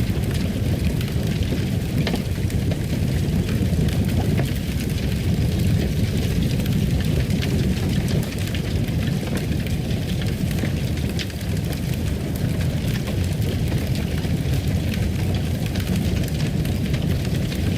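Wood fire crackling in a fireplace: a steady low rumble with scattered pops and crackles throughout.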